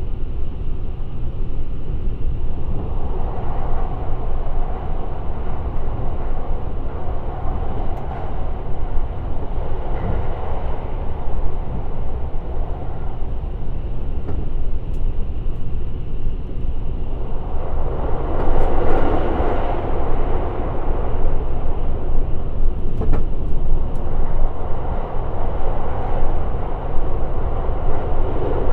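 Limited Express Shirasagi electric train running at speed: a steady rumble of wheels on rail that swells louder for a few seconds past the middle, with a few faint clicks.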